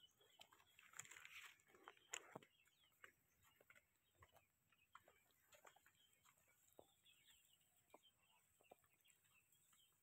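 Near silence: faint outdoor ambience with scattered faint bird calls and small clicks and rustles.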